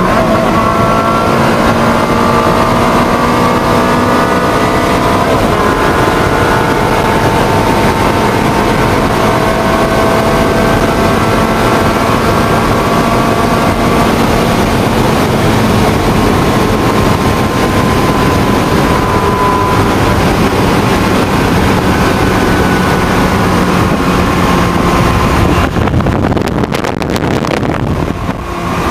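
Ferrari 360 Spider's 3.6-litre V8 running on the move with the roof open, its note slowly rising and falling, with wind noise. Near the end the sound briefly drops away and turns duller before picking up again.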